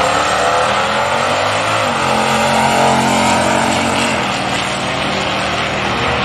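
Drag racing vehicles at full throttle just after the launch, their engines running hard and changing pitch as they accelerate down the strip.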